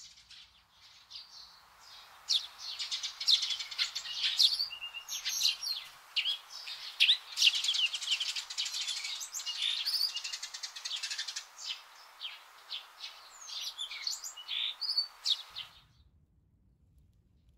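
Several small birds chirping and singing, with many quick calls overlapping over a faint steady hiss. The birdsong cuts off suddenly near the end.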